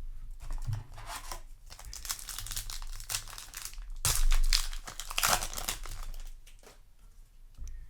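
Foil booster pack of trading cards being torn open and its wrapper crinkled in the hands, in irregular crackling bursts that are loudest a little past the middle.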